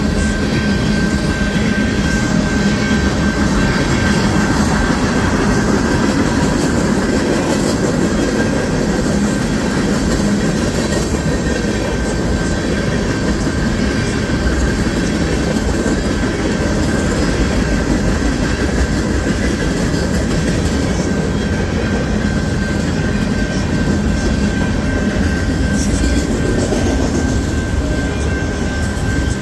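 Freight train cars rolling past over a grade crossing: a steady rumble and clatter of steel wheels on rail, with a thin, steady high tone throughout. The tank cars give way to autorack cars near the end.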